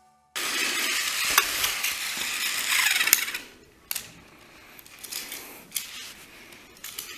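Plarail Toby battery-powered toy train running on plastic track, its small motor and wheels making a noisy rattle that starts suddenly, loud for about three seconds, then drops to a quieter rattle with scattered clicks.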